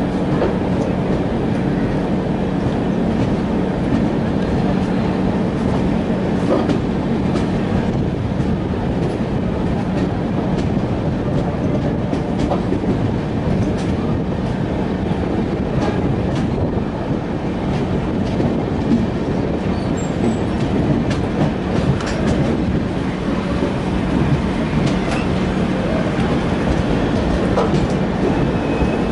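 Rajdhani Express passenger train running, wheels clacking over the rails against a steady rumble and a constant low hum.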